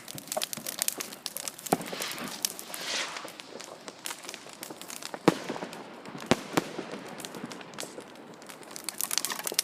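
Bonfire crackling and popping with many sharp snaps, a few louder ones past the middle, and a brief rushing hiss about two to three seconds in.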